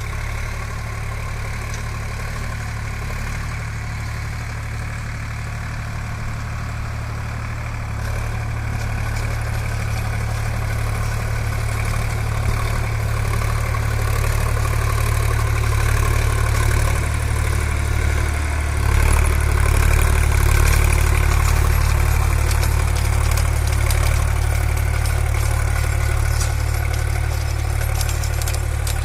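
Sonalika DI 50 tractor's diesel engine running steadily. It gets louder about eight seconds in and again near twenty seconds, with more clatter in the later part.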